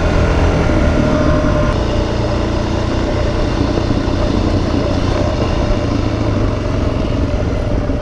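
Suzuki DR-Z400S's single-cylinder four-stroke engine running steadily, its note shifting lower a little under two seconds in.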